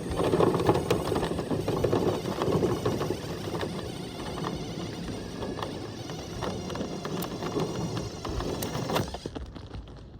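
Power drill spinning a dryer-vent cleaning brush on flexible nylon rods inside the vent duct, with a steady run of clicking and rattling as the rods and brush scrub the duct. It stops about nine seconds in.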